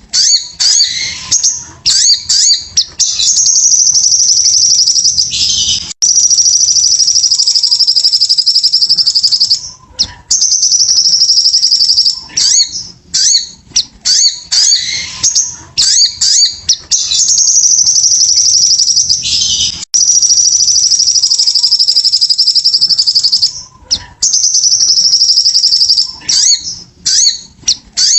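Crimson sunbird (sogon) singing loudly, from a bird-lure recording. Bursts of sharp high chirps lead into a long, rapid, high trill lasting several seconds, and the same sequence comes back about every ten seconds.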